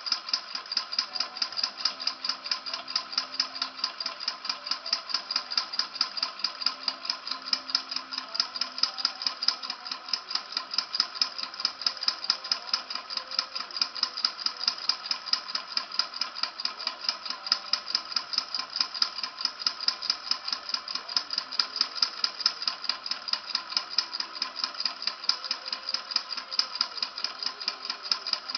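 Model Stirling engine running steadily, its moving parts clicking and rattling in a fast, even rhythm.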